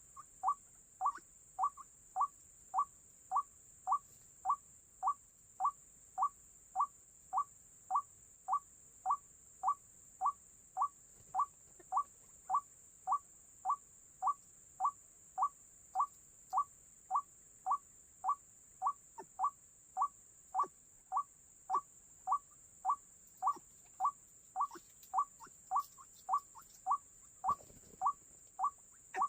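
White-breasted waterhen (ruak-ruak) call repeated monotonously: a short rising note nearly two times a second, unchanging in rhythm. A steady high hiss runs underneath.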